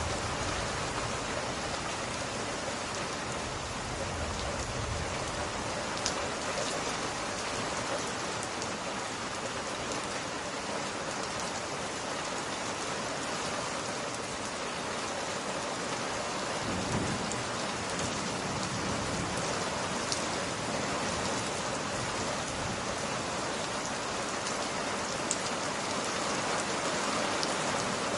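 Steady rain falling on glass, with a few faint sharp crackles from a wood fire scattered through it.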